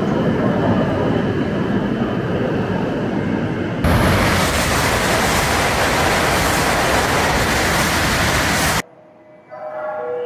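Train running at speed, a steady rumbling rush of wheel and running noise. About four seconds in it cuts to a louder, hissier rush, which stops abruptly near the end.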